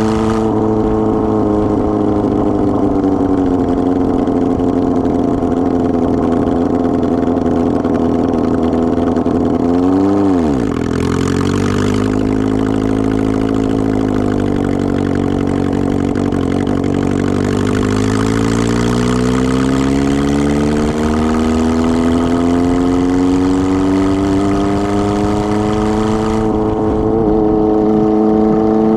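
Kawasaki ZR-7's 750cc inline-four engine running without an exhaust muffler while under way. Its note holds steady, briefly rises then drops sharply about ten seconds in, as with a gear change, sags slowly, then climbs steadily as it gathers revs near the end.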